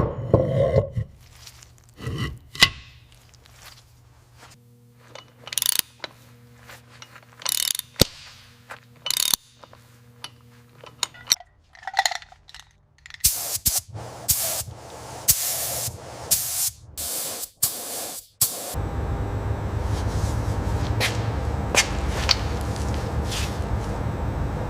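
Workshop sounds: scattered knocks, clanks and short hissing bursts. About three-quarters of the way in, an engine starts and runs steadily.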